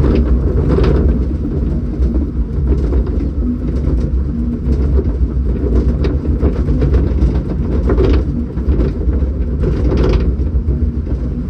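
Steady low mechanical rumble of a log flume ride heard from inside the boat, with a few short clatters about a second in, around eight seconds in and around ten seconds in.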